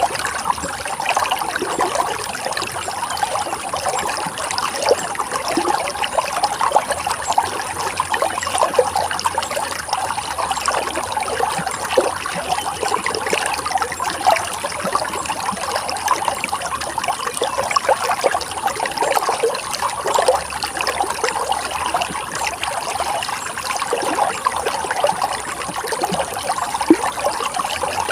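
Running water flowing steadily, with many small splashes and gurgles over an even rush.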